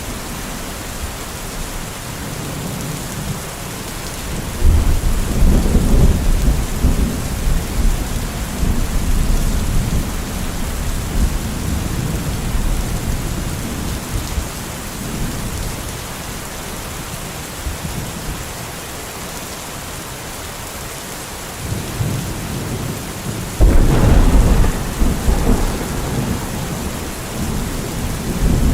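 Steady rain with thunder rumbling: a loud deep roll about five seconds in that fades over several seconds, a softer one a little past twenty seconds, and another loud roll near the end.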